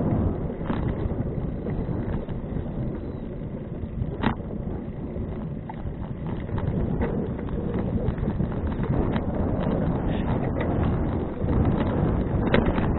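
Wind rumbling on an action camera's microphone while cycling, with scattered clicks and knocks, the sharpest about four seconds in and a cluster near the end.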